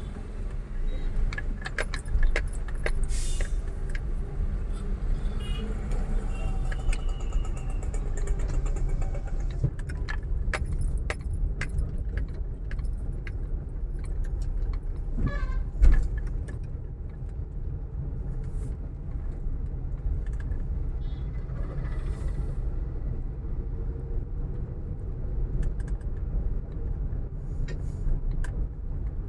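Motor vehicle driving on the road: a steady low road rumble with scattered clicks and rattles, and one loud thump about sixteen seconds in.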